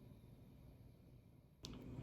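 Near silence: faint room tone, which steps up with a light click near the end.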